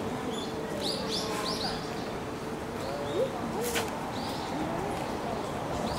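Small birds chirping in short high notes, a quick run of four about a second in and a few more later, with a sharp click a little past halfway.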